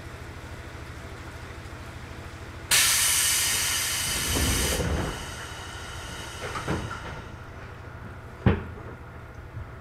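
JR 211 series EMU standing at a station platform, its equipment giving a steady low hum. About three seconds in, a sudden loud hiss of compressed air from the train's pneumatic equipment lasts about two seconds and fades with low thuds under it. A few small knocks follow, then one sharp knock near the end.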